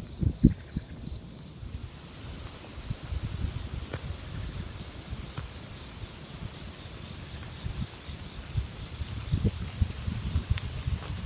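Insects chirping steadily in a high, even pulse of about four beats a second, with a second, higher-pitched insect trilling over it for the first couple of seconds. Low, irregular rumbling thumps run underneath.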